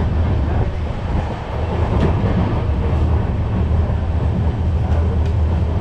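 Running noise of a moving passenger train heard from inside a coach: a steady low rumble with rattling, and a few sharp clicks.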